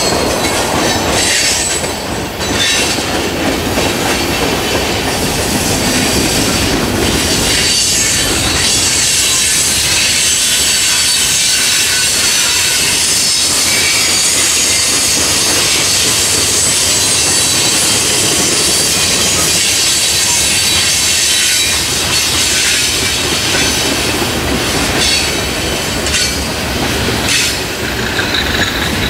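A train rolling past, its wheels squealing in steady high tones and clicking over the rail joints.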